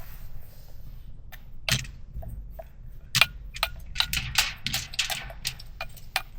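Light metallic clinks, taps and scrapes of a spoon working food in a camp cooking setup: scattered at first, becoming a busier string of clicks from about three seconds in.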